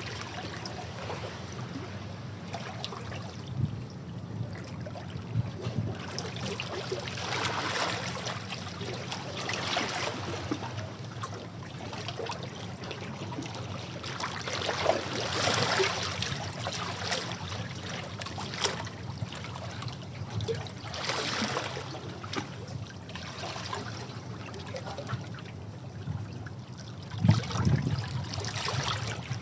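Sea waves washing against rocks, surging and draining back every few seconds, with a low rumble beneath and a heavier wash about two seconds before the end.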